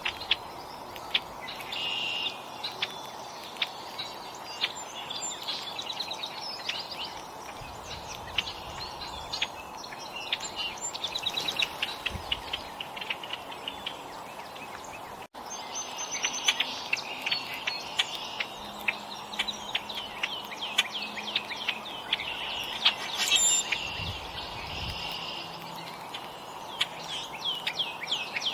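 Several small songbirds chirping and calling in quick runs of high notes over steady background noise, with a momentary break about halfway through.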